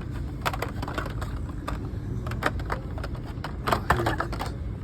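Irregular plastic clicks and rattles of blister-packed die-cast toy cars being handled and flipped through on store pegs, with a cluster of clicks near the end, over a steady low hum.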